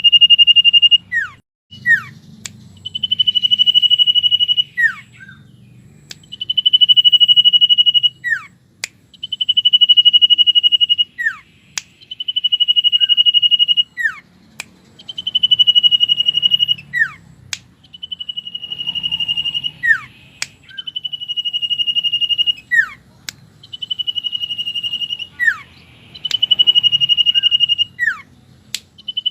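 Common iora (cipow) singing: a long, steady whistle held for about two seconds, followed each time by quick downward-sliding notes and sharp clicks. The phrase repeats about every three seconds.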